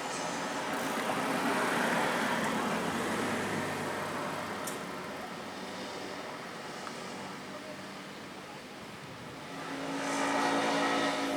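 Road traffic: vehicles passing, the noise swelling about two seconds in, fading, and swelling again near the end.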